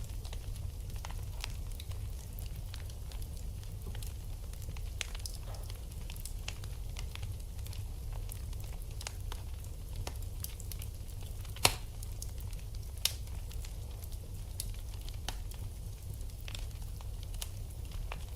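Wood fire in a fireplace crackling: scattered small snaps over a steady low rumble, with two louder pops about two-thirds of the way through, just over a second apart.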